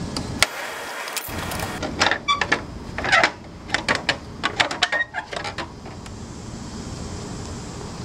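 A run of sharp clicks, taps and rattles lasting a few seconds, from hard plastic parts and hand tools being handled while a motorcycle's rear bumper piece is taken off.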